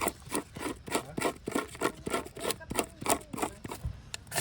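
Quick, even rubbing or scraping strokes, about four or five a second.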